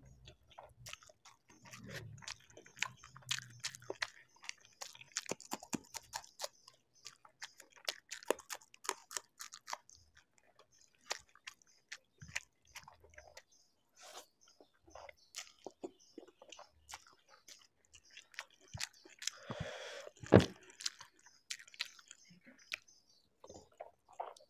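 Close-miked chewing of soft instant noodles: many small wet clicks, lip smacks and squelches. One louder mouth sound comes about twenty seconds in.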